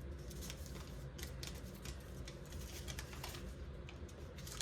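Origami paper being folded and creased by hand: faint, scattered crinkles and soft ticks of paper under the fingers, over a low steady hum.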